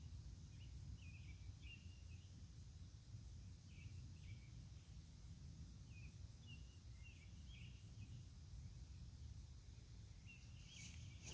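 Faint outdoor night ambience: a steady low rumble with scattered short, high chirps coming in small groups every second or so.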